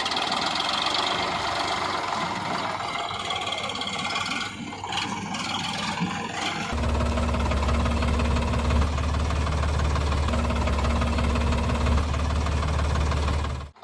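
Sonalika tractor's diesel engine running. About halfway through, the sound changes to a steady, deep idle, which cuts off suddenly just before the end.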